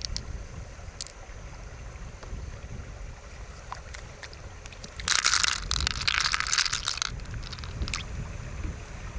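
Low wind rumble on the microphone, with a few light clicks and a burst of dense crackling, scraping noise about five seconds in that lasts some two seconds.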